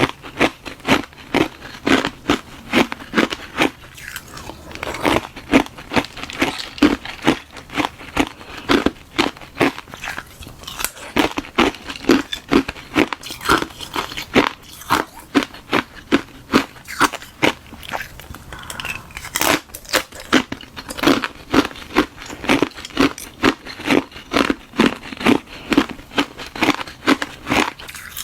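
Close-up chewing of hard ice and frozen milk tea: a steady run of crisp crunches, about two to three a second, as the ice is bitten and ground between the teeth.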